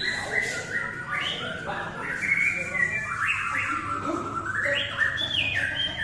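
Several white-rumped shamas singing at once, their clear whistled phrases and upward and downward glides overlapping without a break.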